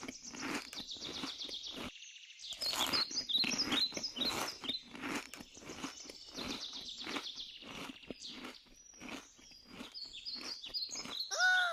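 Birds chirping over a steady run of crunching clicks, with a short falling pitched call just before the end.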